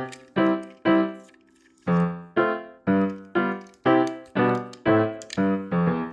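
Background music: piano-like keyboard notes or chords struck about twice a second, each fading away, with a short pause about a second in.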